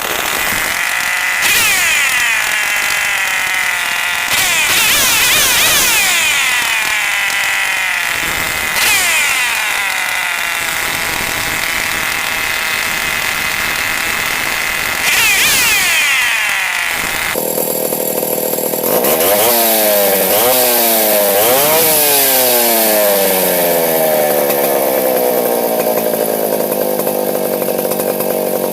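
Stihl 070 two-stroke chainsaw engine running and being revved up and down several times. About two-thirds of the way through the sound changes abruptly, then comes a quick series of revs before the engine settles back toward idle.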